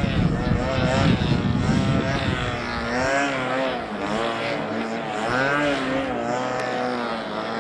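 Radio-controlled model aircraft engine whining, its pitch rising and falling over and over as the model manoeuvres. Wind buffets the microphone with a low rumble for the first three seconds or so.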